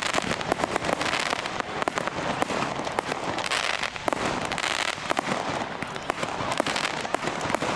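Fireworks display: a rapid, continuous run of sharp bangs and crackling from exploding shells, many reports a second.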